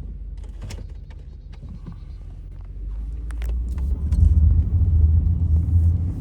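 Pickup truck driving through snow: a low engine and drivetrain rumble that grows louder about three to four seconds in, with a few light clicks and knocks over it.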